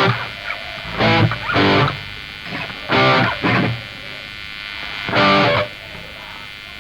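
Distorted electric guitar playing short single notes or chords, about five of them, each lasting about half a second with pauses between.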